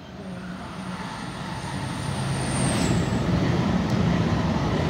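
Oscar H-set double-deck electric intercity train approaching and running through the platform without stopping. Its rumble and motor hum grow louder over the first three seconds and then hold steady as the carriages pass. A thin high whine sounds over the first three seconds.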